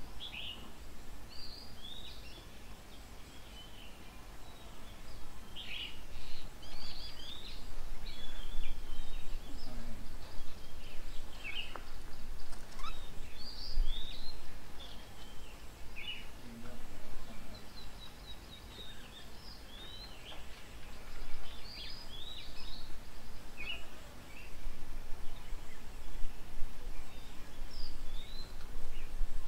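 Several birds calling, many short high chirps and sweeping notes, sometimes a few a second, over a low steady rumble.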